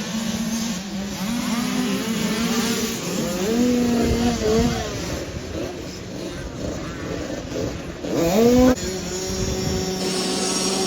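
Several 50cc motocross bike engines running and revving, their pitch rising and falling over one another. About eight seconds in, one revs sharply up, the loudest moment, and cuts off suddenly.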